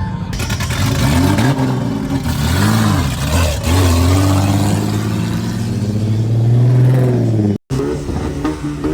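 A car engine revving hard: several quick rises and falls in pitch, then a rev held high and climbing slowly for a few seconds. It cuts off abruptly near the end.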